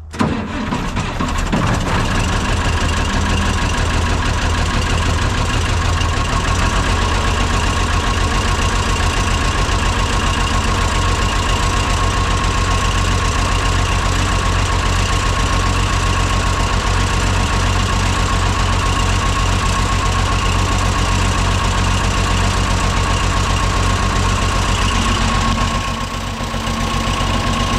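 Cockshutt 1850 tractor's Perkins diesel engine catching and then running steadily, started after sitting unused for two years.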